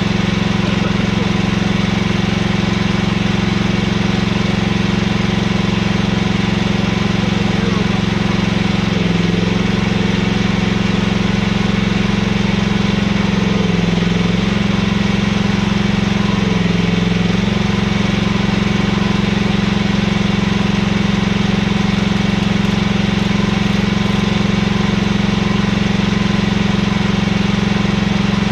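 Mini excavator engine running steadily, with its pitch dipping and shifting briefly three times as it works.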